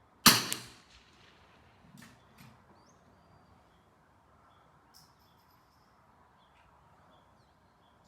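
A single .22 LR shot from a CZ 457 AT-ONE bolt-action rifle firing Wolf Match Target, a sharp crack with a short ring-out, followed by two faint clicks about two seconds in. Birds chirp faintly in the background.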